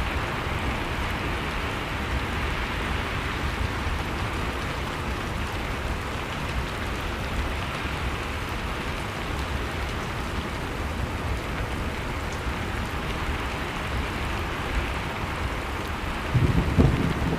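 Steady blizzard storm ambience: a dense, even rush of wind-driven noise over a low rumble. A deeper, louder rumble swells in about a second before the end.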